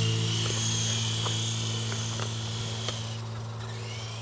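Small electric remote-control helicopter flying: a steady low rotor buzz under a high motor whine. The whine drops away about three seconds in and begins rising again near the end.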